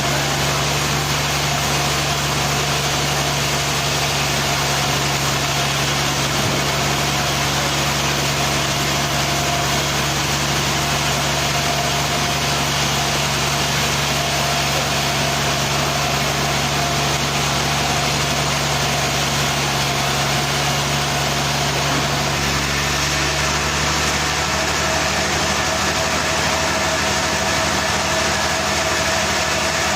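An engine running steadily, with an even mechanical hum, likely sawmill machinery. Its low note changes slightly about 23 seconds in.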